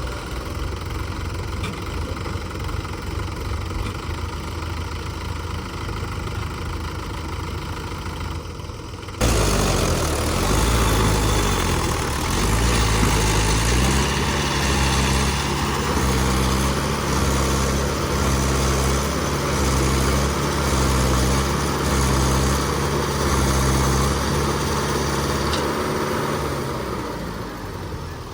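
Diesel tractor engine idling steadily. About nine seconds in it suddenly gets louder and its pitch climbs over a few seconds to a steady, faster run.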